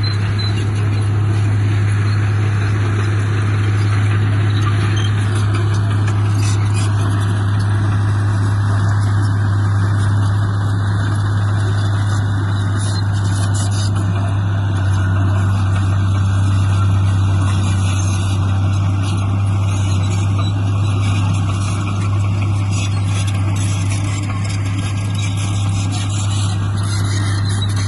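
Diesel engine of heavy earthmoving machinery running steadily at a constant speed, with a strong low hum.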